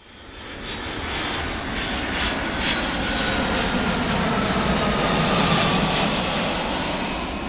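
Airplane engine noise that swells in over the first couple of seconds and holds steady, with a faint whine sliding slowly down in pitch as the aircraft passes.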